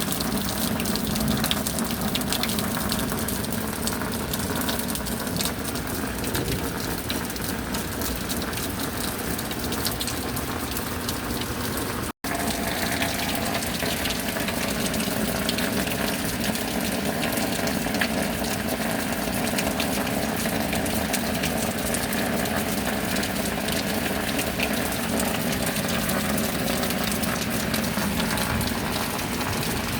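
Steady rain: a dense hiss of falling water with many small drop ticks. It cuts out for an instant about twelve seconds in, then carries on.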